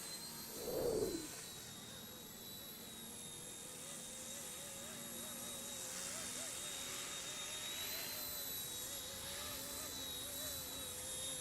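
Small electric RC Era C138 Bell 206 scale RC helicopter in flight: its motors and rotors give a steady high-pitched whine, with a lower tone that wavers up and down as it is flown. About a second in there is a brief, louder sound that falls in pitch.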